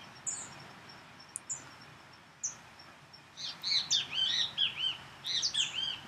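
Birds chirping: a few single short high chirps at first, then a quick run of many short chirps from about halfway on.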